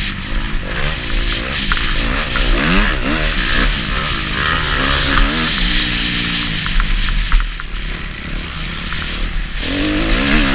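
Kawasaki KX250F four-stroke motocross bike engine revving up and down again and again as it is ridden, with scattered clicks and rattles over a low rumble.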